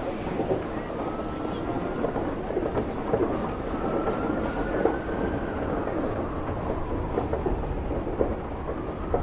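Heavy rainstorm: a steady downpour full of spattering drops over a low rumble of thunder, with a faint tone in the background that slowly rises and then falls.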